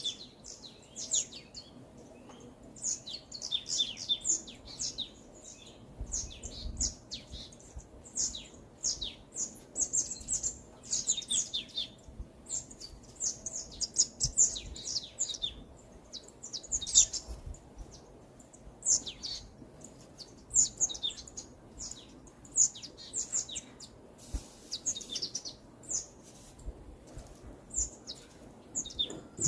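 Songbirds chirping and singing: a steady stream of short, quick, high-pitched notes, several birds overlapping.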